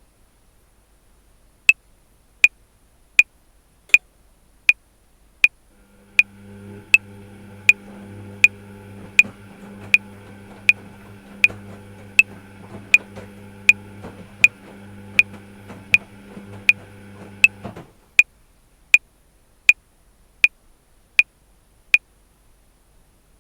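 Electronic metronome clicking at 80 beats per minute, about 28 even clicks, which makes four bars of 7/4. Through the middle of the clicking a steady low hum with several held tones sounds underneath and cuts off suddenly near the end.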